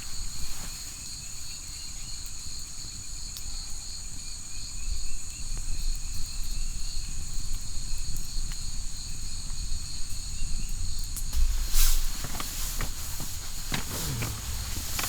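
Night forest insects chirring steadily in two high, unbroken tones, with scattered rustles and clicks and a louder rustling knock about twelve seconds in.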